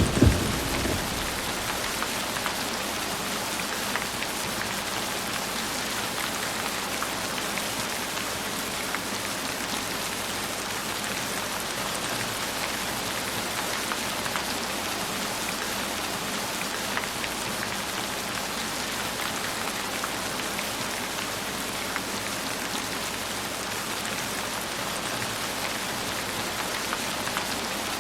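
Heavy rain falling steadily, an even hiss of rain with scattered drop ticks. A low thunder rumble dies away in the first second.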